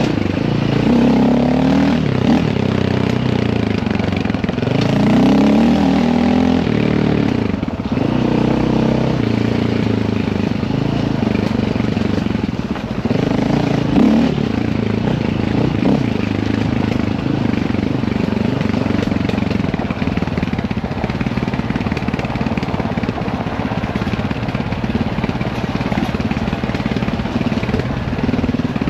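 Dirt bike engine running under riding load, its pitch rising and falling again and again through the first half as the throttle is worked, then running more steadily.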